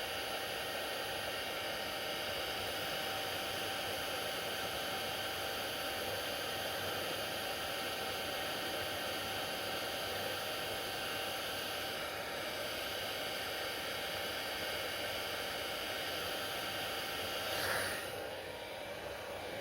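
Hair dryer running steadily: an even rush of blown air with a steady motor whine. Near the end a brief louder burst comes, and then the sound runs slightly quieter.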